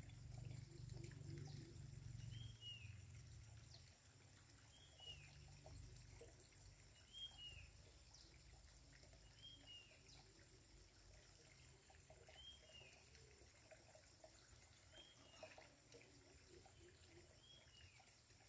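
Faint, near-silent ambience with a bird repeating a short falling whistle about every two to three seconds.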